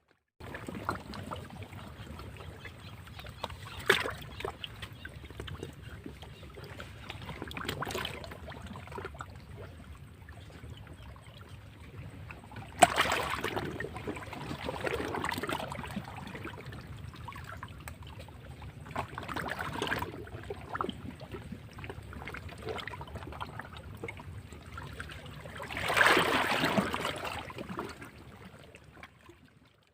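Sea waves washing against rocks: a continuous wash of water broken by about five louder surges as waves break, the biggest about halfway through and near the end.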